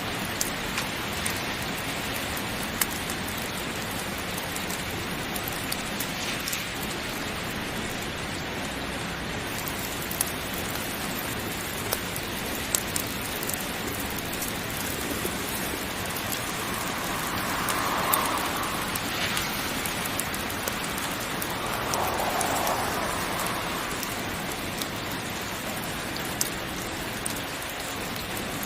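Steady heavy rain, an even rushing hiss with scattered sharp ticks, swelling briefly twice about two-thirds of the way through.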